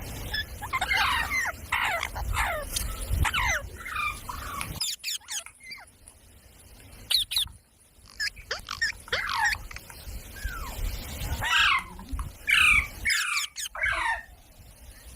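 Pet parrot giving a run of short calls, each falling in pitch, in two bouts with a quieter pause in the middle.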